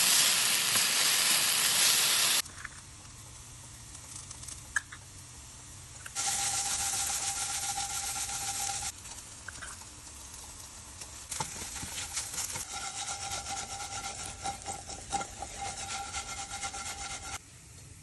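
Raw banana pieces frying in hot oil in a pan: a loud sizzle that drops off after a couple of seconds. Spatula stirring and scraping follows, with the sizzle swelling again twice.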